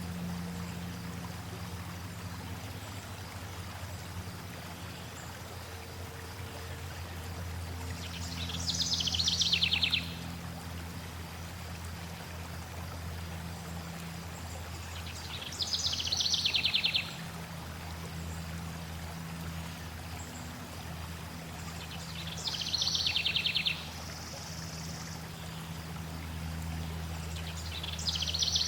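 Flowing water with a songbird singing a fast, descending trilled phrase about two seconds long. The phrase repeats four times, roughly every seven seconds, and a low steady hum runs underneath.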